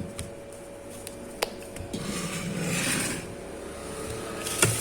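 A spoon scraping and rubbing against a pan while thick, cooled cake dough is moved, with a swell of scraping about two seconds in, a sharp tap before it and knocks near the end.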